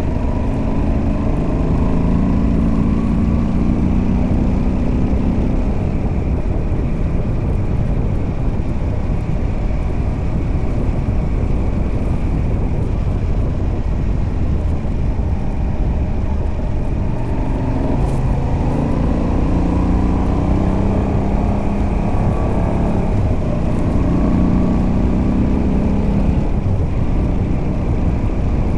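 Moto Guzzi V85TT's air-cooled transverse V-twin on the stock exhaust with a Mistral de-cat pipe, ridden on the open road over wind and road noise. The engine note climbs under acceleration for the first few seconds, and again several times through the second half.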